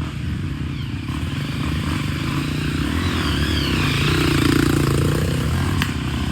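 Dirt bike engine running and revving up, getting louder toward a peak a little past the middle.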